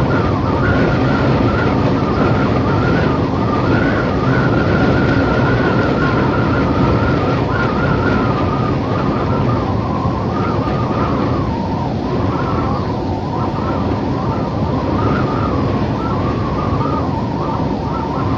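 Howling desert wind: a steady rush with a whistling tone that wavers up and down in pitch.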